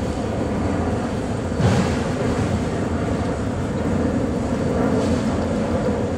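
Autorack freight cars rolling past: a steady, loud rumble of wheels on rail, with one short louder knock about a second and a half in.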